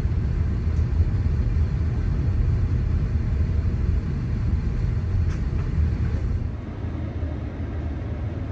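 Low, steady cabin rumble of an Airbus A350-1000 taxiing on the ground, heard from inside the cabin. The rumble drops a little in level about six and a half seconds in.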